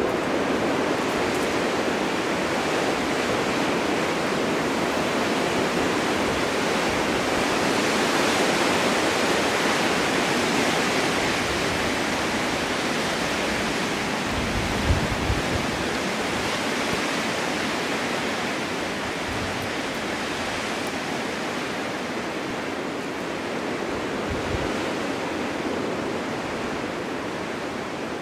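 Winter storm wind blowing steadily, swelling and easing slowly, with a few brief low thumps about halfway through.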